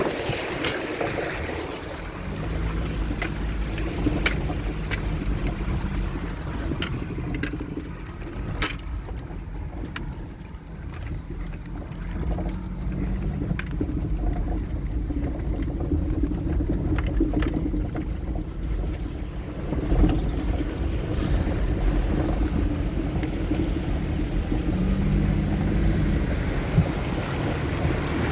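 Four-wheel-drive vehicle's engine running under load as it drives through a river crossing, its pitch rising and falling a few times, over a low rumble and the wash of water around the vehicle.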